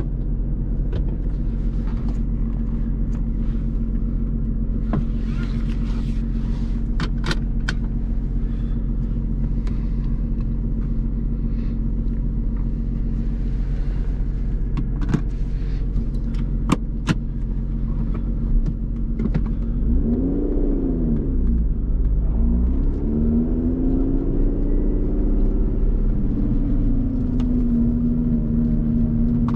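Supercharged 3.5-litre V6 of a Lotus Evora GT with a titanium exhaust, running at a steady speed with a few sharp clicks. About two-thirds of the way through, the revs rise and fall twice through gear changes as the car pulls away, then settle into a steady higher drone.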